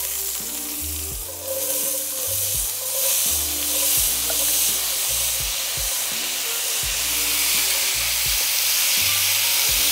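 Diced raw potatoes sizzling in a hot cast-iron skillet as they are poured in and then stirred with a wooden spatula. The sizzle swells about a second in and then holds steady.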